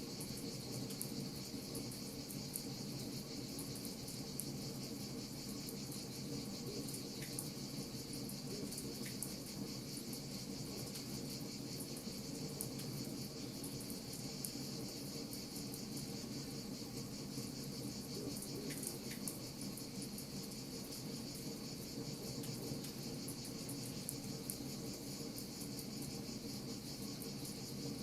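Wood fire crackling with scattered small pops, over a steady, even high chirring of insects like crickets and a low, steady rumble.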